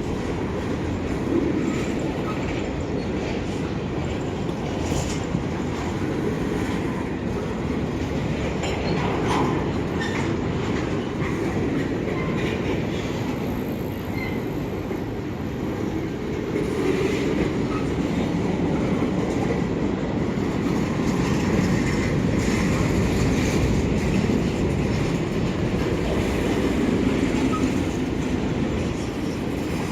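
Freight cars, mostly grain hoppers, rolling past on the rails: a steady rumble with occasional short knocks from the wheels, growing a little louder about halfway through.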